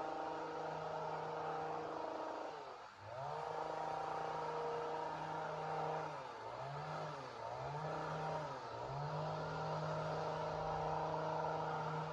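Two-stroke chainsaw engine running at high revs, its pitch dropping sharply and coming back up once about three seconds in and three times in quick succession later on.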